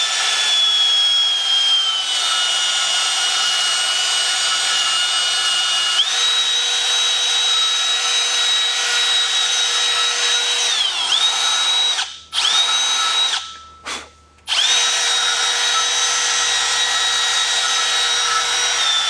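Small handheld rotary power tool spinning at high speed while cleaning the threads of a fitting. It gives a high whine whose pitch sags under load and comes back up, and it is stopped and restarted twice in the second half, with a short run between.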